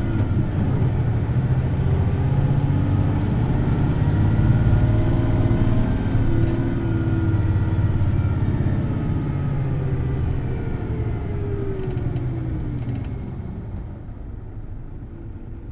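Hino Blue Ribbon City Hybrid bus engine running under way, heard from inside the bus, with a high whine that rises and then falls. Later the engine pitch slides down and the sound drops off about 13 seconds in as the bus slows. A few light clicks come just before the drop.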